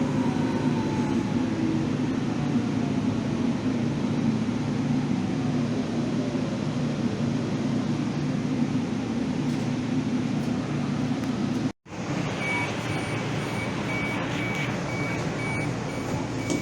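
Steady running rumble inside a rail vehicle, with a falling motor whine as it slows. After a brief dropout near the end, a high electronic beep repeats about twice a second, a typical door-warning signal.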